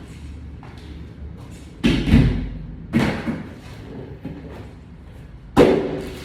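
Three heavy thumps from equipment being handled and set down, two about a second apart and a louder one a few seconds later.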